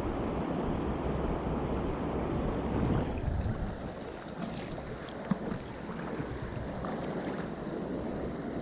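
Mountain stream water rushing over rocks, with a rougher splashing patch about three seconds in and a single sharp click a couple of seconds later.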